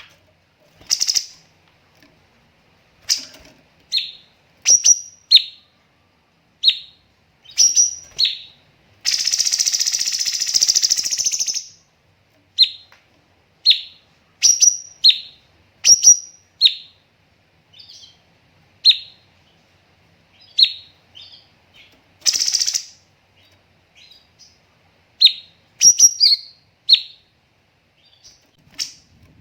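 Cucak cungkok singing a series of short, sharp, high whistled notes, some in quick pairs, with its 'tembakan' calls. About a third of the way in comes one long harsh rasping burst, the loudest sound, and a shorter one follows later.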